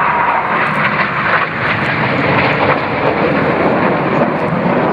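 BAE Hawk jets flying low past, their engine noise loud and steady.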